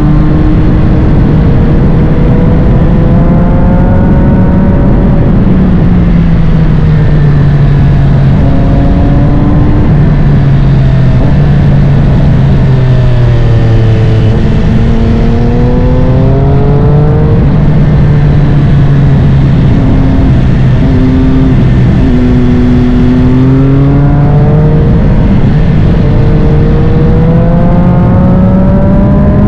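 Triumph Street Triple 765 RS's three-cylinder engine, breathing through a full Spark exhaust, pulling hard on a ride. Its note climbs in pitch and drops back again and again as the rider accelerates through the gears and rolls off, over a constant rush of noise.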